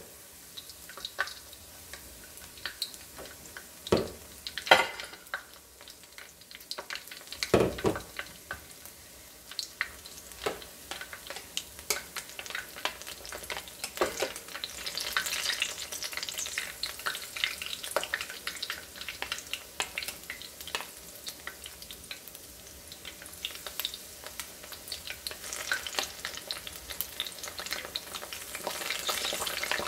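Batter-coated dandelion flowers frying in hot oil in a pan, sizzling and crackling steadily. There are a few knocks in the first eight seconds, and the sizzle grows louder about halfway through and again near the end as more battered flowers go into the oil.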